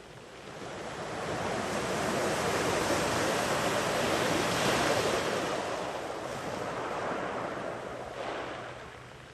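Sea waves breaking and washing up the beach: the surf swells about a second in, peaks in the middle, and ebbs away near the end.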